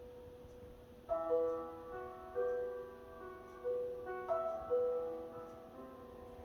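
Piano playing a slow, gentle melody, single notes and chords struck every half second to a second and left to ring out.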